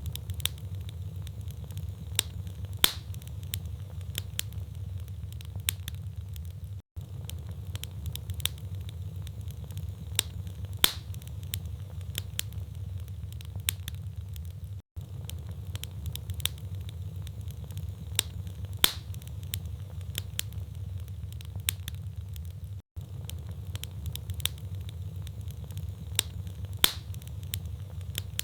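Wood logs burning in a fireplace: sharp, irregular crackles and pops over a steady low rumble of the flames. The same few seconds of crackling repeat about every eight seconds, with a brief dropout at each join.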